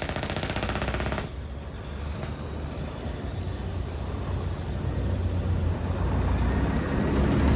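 Low, heavy truck engine rumble, growing steadily louder as the truck comes nearer. A fast rattling stops about a second in.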